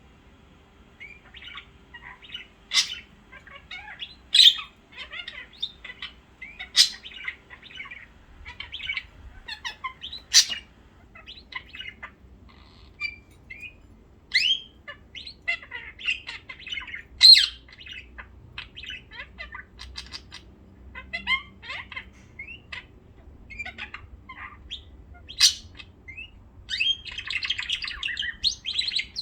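Small pet birds chirping and chattering, with several sharp loud calls scattered through and a dense burst of chatter near the end.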